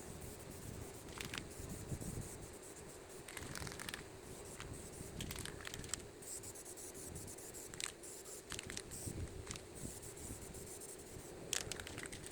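Faint scraping and rustling, with scattered short scratchy sounds over a low steady hum.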